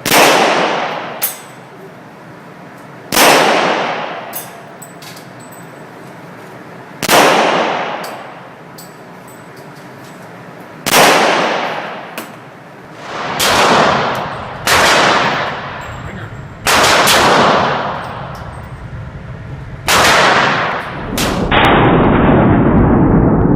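Single gunshots, about nine, each followed by a long echoing tail. The first few come roughly four seconds apart and the later ones more quickly.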